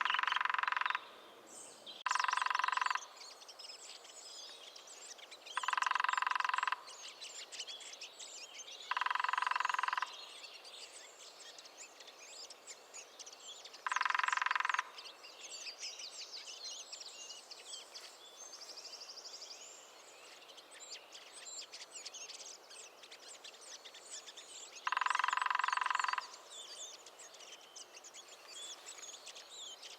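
Lesser spotted woodpecker drumming: six rapid, even rattles of about a second each, several seconds apart, over a background of small birds chirping.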